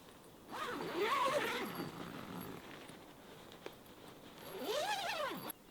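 A dog whining twice, each a drawn-out cry that rises and then falls in pitch; the second cuts off suddenly near the end.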